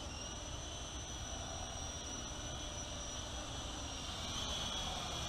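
Small electric coaxial RC helicopter's rotors buzzing steadily in flight, over the steady trilling of crickets.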